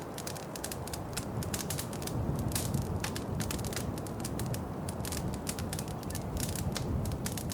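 Wood fire in a fireplace crackling, with many quick, irregular pops and snaps over a low steady rumble of the flames.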